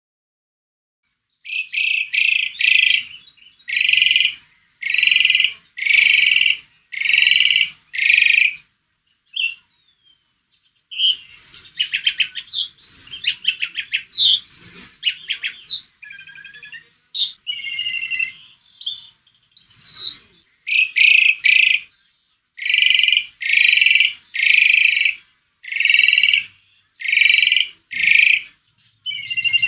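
Asian pied starling (jalak suren) in full song. It starts after a short silence with a series of loud, repeated calls about one a second. In the middle comes a run of rapid chattering and gliding whistles, then the repeated calls return.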